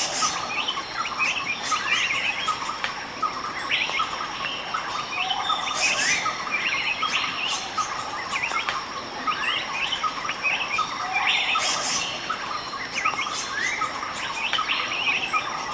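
Tropical forest ambience: many birds chirping and calling, with rising whistled sweeps, over a steady high insect drone. The same run of calls repeats about every five and a half seconds.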